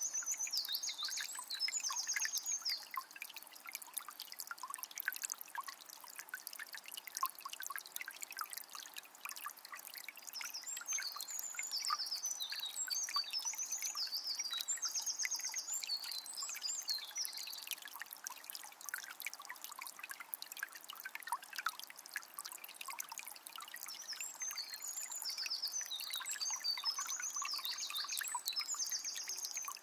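Forest river flowing with a steady trickling, splashing rush. A songbird sings clusters of high, quick chirping notes at the start, again from about ten to seventeen seconds in, and near the end.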